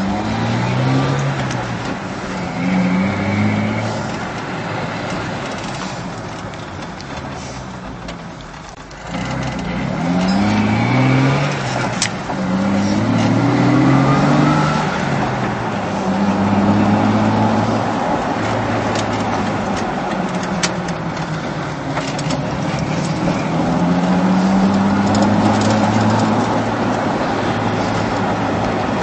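Jeep Wrangler engine heard through its exhaust, accelerating several times with rising pitch through the gears, then holding a steady drone at cruise.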